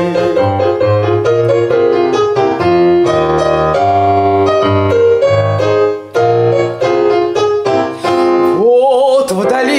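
Piano interlude of a Russian folk song, with chords over a moving bass line between sung verses. A woman's voice with wide vibrato comes back in near the end.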